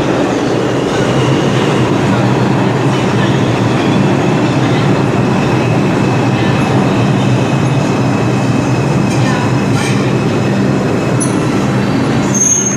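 New York City subway train running through a station: a steady loud rumble of wheels on rail with a low hum, and a brief high squeal near the end.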